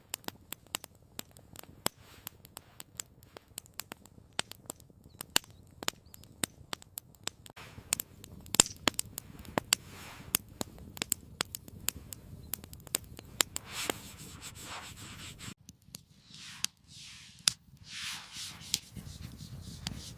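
Wood campfire crackling, with frequent irregular sharp pops. A few soft rushing swells come in over the last few seconds.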